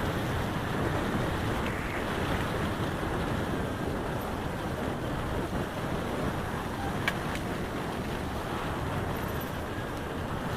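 Steady rushing wind noise on the microphone while riding, with one sharp click about seven seconds in.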